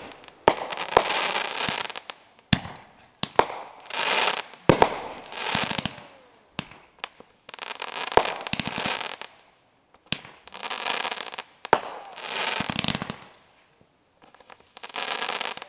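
Fireworks bursting in quick volleys: sharp bangs, each followed by about a second of dense crackling and hiss. There are short lulls between groups of bursts.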